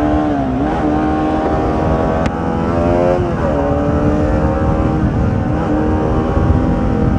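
A 200 cc single-cylinder motorcycle engine revving hard under acceleration, its pitch climbing steadily, with a sudden drop about three and a half seconds in as it shifts up a gear, over a low rumble of wind and road noise.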